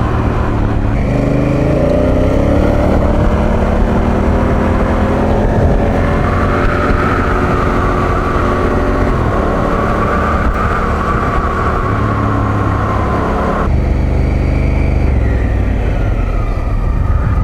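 Honda Africa Twin adventure motorcycle under way, its engine rising in pitch as it accelerates over the first few seconds, then running at a steady pace with wind rushing past. The sound changes abruptly near the end.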